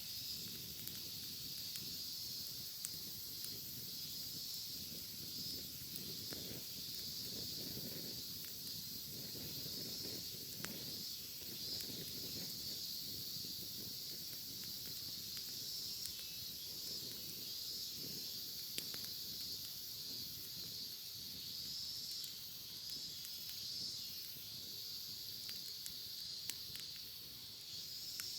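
Cicadas singing in a steady, continuous high-pitched chorus, over a wood campfire that crackles with scattered small pops.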